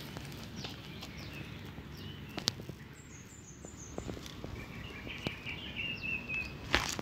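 Quiet outdoor background with a bird chirping, a warbling call in the second half, and a few sharp clicks and rustles, the loudest near the end.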